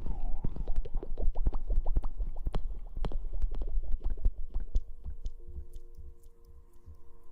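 Close-miked scratching and rubbing: a dense run of quick crackles over a low rumble, thinning out and fading after about five seconds.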